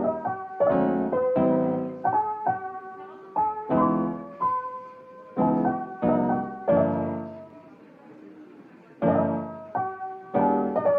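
Background music: a solo piano melody of struck chords and notes, each ringing and fading, with a brief lull of held notes about two thirds of the way in before the chords resume.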